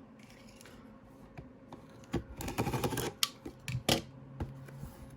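Cardboard trading-card hobby box being handled and unwrapped: a quiet start, then about two seconds of sharp crackling, clicking and scraping from packaging handled close to the microphone.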